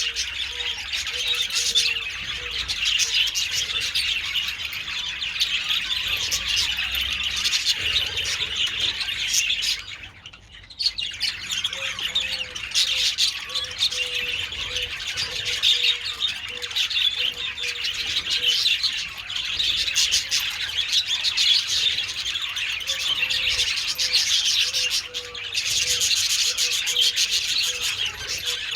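A flock of budgerigars chattering and warbling continuously in a dense, high-pitched twitter, with a brief lull about ten seconds in.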